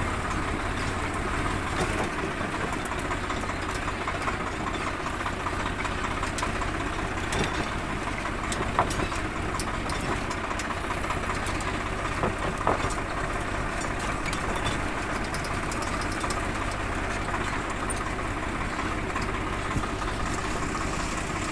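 Tractor engine running steadily, with a few faint ticks over it.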